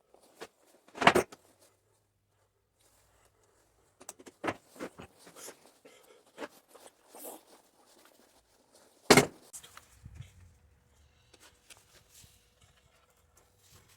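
Scattered clicks and knocks of handling work, as of tools and parts being picked up and set down. A sharp knock comes about a second in, a run of lighter clicks follows after a short lull, and the loudest knock comes about nine seconds in.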